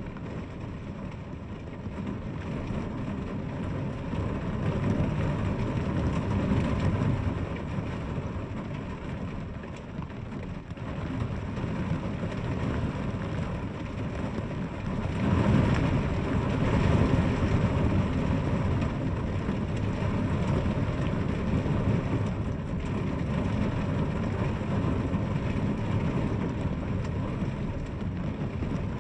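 Steady rain falling, a dense hiss with a heavy low rumble, swelling louder for a few seconds about halfway through.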